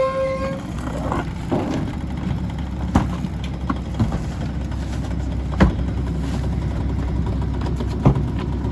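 Mack LE garbage truck's diesel engine running steadily while trash is loaded and packed, with a few sharp metallic clanks. A steady whine cuts off about half a second in.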